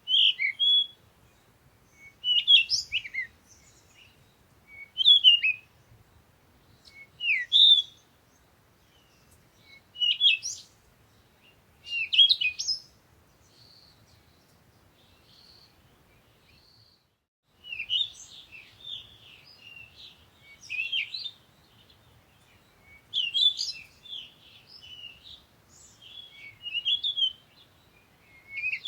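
Songbirds chirping and singing in short high phrases, one or two seconds apart at first; after a lull with a few soft notes, the chirping turns busier and overlapping in the second half.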